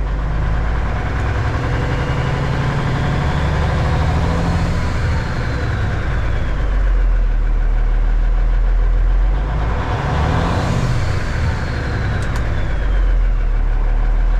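Diesel Cummins engine in a Kenworth K100E cab-over revved up twice, each time winding up and falling back toward idle. On each let-off no Jake brake bark is heard: the engine brake is not working, a fault traced to its switch circuit.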